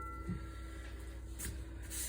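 Faint ringing of metal cookware dying away after a clank, with two soft knocks as dishes are handled, over a low steady hum.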